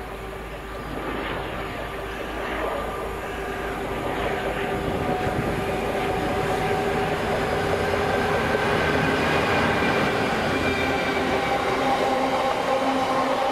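Diesel-hauled freight train approaching, getting steadily louder, with several high steady tones over the rumble of the wheels on the rails.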